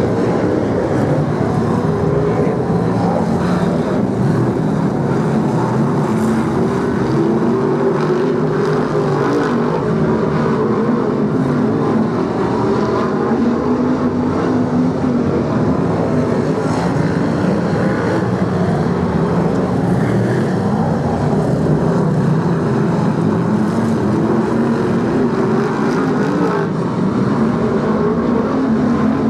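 A field of BriSCA F1 stock cars racing around a speedway oval, their V8 engines running hard together in a continuous loud din, the pitch rising and falling as cars accelerate and pass.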